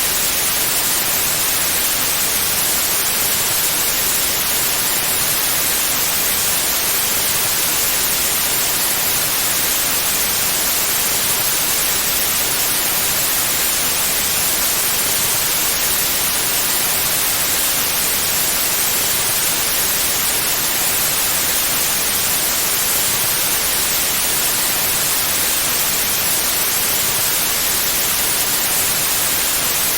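Steady, unchanging white noise: a constant even hiss, bright and strongest in the high end.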